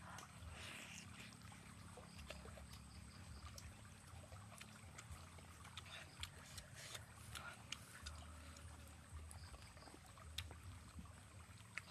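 Faint, wet chewing and lip-smacking of a person eating grilled fish, heard as soft irregular clicks over a low steady hum.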